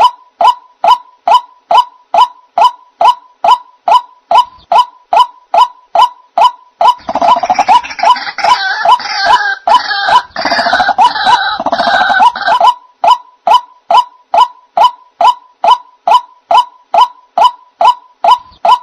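White-breasted waterhen (ruak-ruak) lure call: a steady, fast series of short croaking notes, about two to three a second. From about seven seconds in to about twelve and a half, a louder, denser stretch of overlapping calls joins in, then the plain series resumes.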